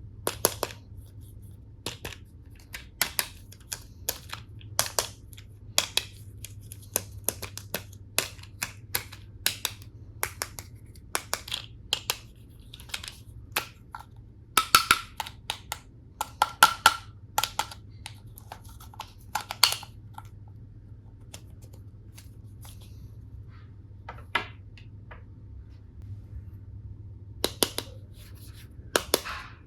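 Hard plastic toy tool pieces clicking, tapping and clattering as they are handled, in irregular sharp taps, some with a short ring, with a pause of a few seconds about two-thirds of the way through.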